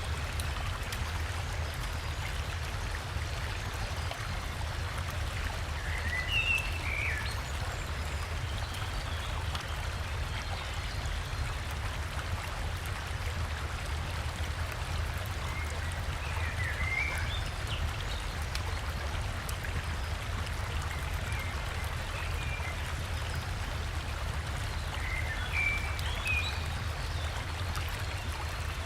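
Steady rush of river water, with a deep low rumble. Short bird chirps break in three times: near the start, about midway and near the end.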